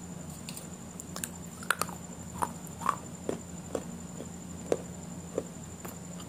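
A person chewing food close to the microphone: short mouth clicks and smacks at irregular intervals, about one every half second, thickest in the middle.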